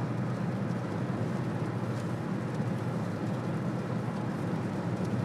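Steady road and engine noise inside a moving car's cabin, an even low rumble with no breaks.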